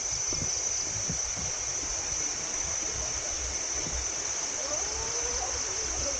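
Waterfall water rushing steadily, with a constant high-pitched hum above it.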